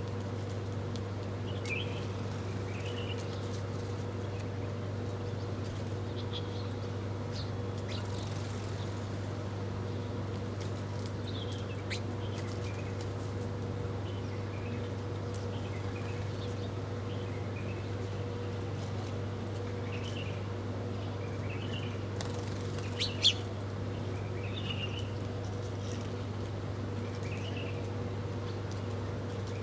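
Small birds chirping on and off in short, high calls over a steady low hum. One sharp click about three quarters of the way through is the loudest sound.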